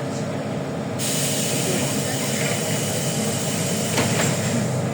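Running and road noise of a LiAZ 5292 low-floor city bus heard from inside, with a low engine hum. A steady hiss comes in about a second in, and there is a short click near the end.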